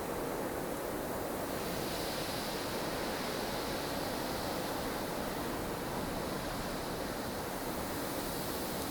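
Snowstorm wind blowing steadily in a deep rushing roar, with a higher whistling gust coming in after about a second and a half.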